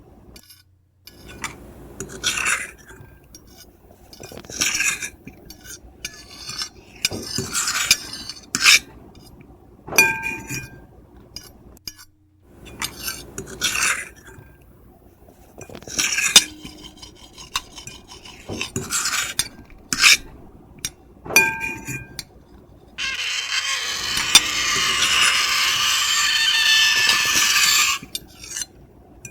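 Metal fork and knife scratching across a plate: a series of short scraping strokes, a few of them with a high pitched squeal, then one long continuous scrape lasting about five seconds near the end.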